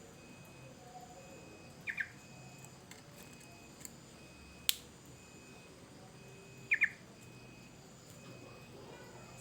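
Yellow-vented bulbul giving two short, quick double calls, a few seconds apart. A single sharp click falls between them.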